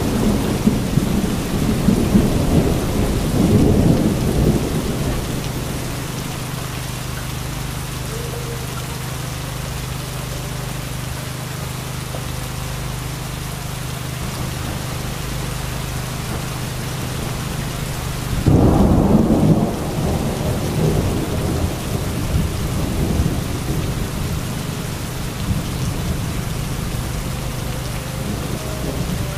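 Heavy rain pouring steadily during a thunderstorm. Thunder rumbles through the first few seconds, then a louder clap of thunder comes about two-thirds of the way through and rolls on afterwards.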